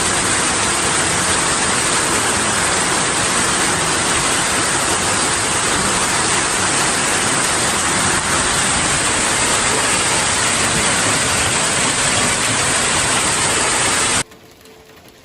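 Heavy rain and hail coming down in a loud, steady hiss, which cuts off suddenly near the end.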